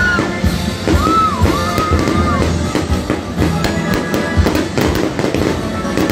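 Fireworks bursting in rapid, irregular bangs and crackles over loud music playing.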